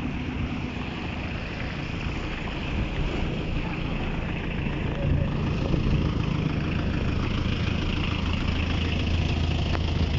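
Heavy rain falling on a wet road, with a vehicle engine idling underneath as a low steady hum that grows firmer about halfway through.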